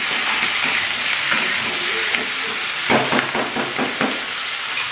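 Vegetables sizzling steadily in hot oil in a kadai as they are stirred with a metal spatula, with a quick run of spatula scrapes and clinks against the pan about three seconds in.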